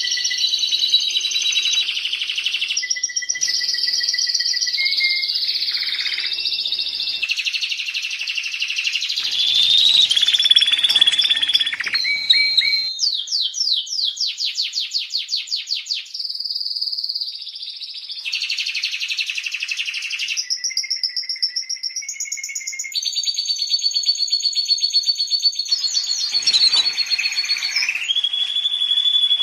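Domestic canary singing a long continuous song of rapid trills and rolls. Each run of fast repeated notes holds for a second or two, then switches abruptly to a new pitch and pattern.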